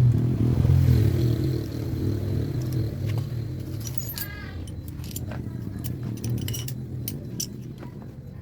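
A car engine runs with a strong low rumble that eases off through the first few seconds. After that come light metallic clicks and a brief fast rattle, like tools handled on metal.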